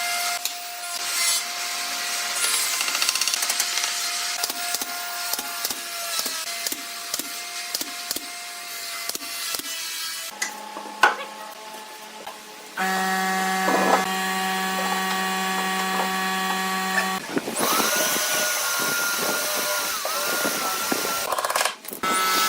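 Woodworking power tools running and working wood, heard as several short clips that change abruptly, each with a steady motor whine at a different pitch.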